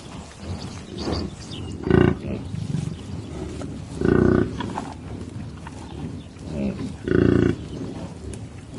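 A large animal calling three times, each call short, loud and pitched, with gaps of about two to three seconds between them.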